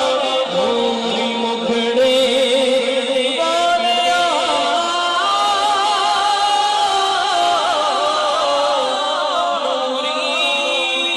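Devotional naat singing: a voice carries a wavering, ornamented melody throughout, with no break.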